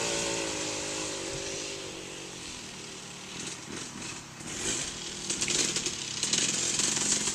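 KTM 300 MXC two-stroke dirt bike engine running, fading away after a close pass. About five seconds in it grows louder again with uneven revving.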